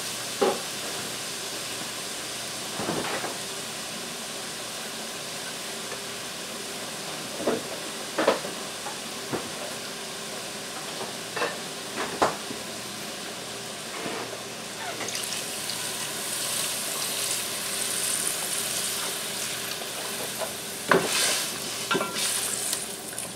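Curried chicken wings sizzling steadily in a cast-iron Dutch pot, with scattered small clicks. About 15 s in the hiss grows stronger and higher as liquid goes into the pot. Near the end a wooden spoon stirs the stew, knocking against the pot.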